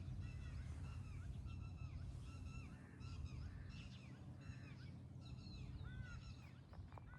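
Several birds calling over and over, short harsh pitched calls overlapping one another, over a steady low rumble.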